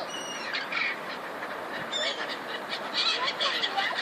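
A flock of birds calling: a few high whistled notes in the first second and again about two seconds in, then many short overlapping calls that grow busier from about three seconds in, over steady outdoor background noise.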